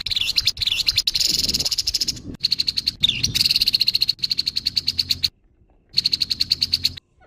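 Grey-headed babbler (tepus kepala abu) giving harsh, rapid rattling chatter calls, in three bursts with short breaks between them.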